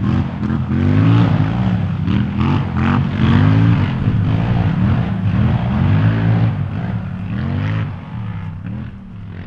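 Sport ATV engine revving up and down over and over under throttle, its pitch rising and falling about once a second, fading out near the end.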